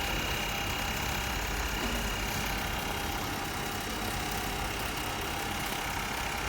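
YFM 302NCA-TC automatic nylon zipper sewing machine running steadily on its own, sewing chain teeth onto the zipper tape.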